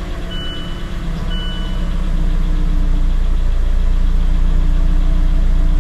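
2016 Mazda CX-5's four-cylinder engine idling just after being started following an oil and filter change, getting louder over the first two seconds and then running steadily. Two short high beeps sound early on.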